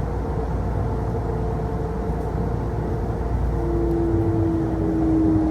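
Kintetsu Osaka Line electric train running, heard from inside the car: a low, steady rumble of wheels on rail with a motor whine. About three and a half seconds in, a lower whine comes in and slowly falls in pitch.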